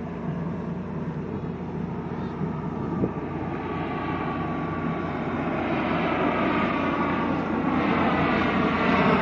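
P-3 patrol aircraft's four turboprop engines approaching in a flyover, the sound growing steadily louder.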